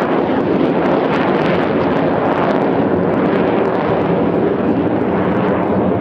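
Jet noise from Sukhoi Su-35S fighters' twin afterburning turbofan engines, a loud, steady rushing sound without any clear pitch.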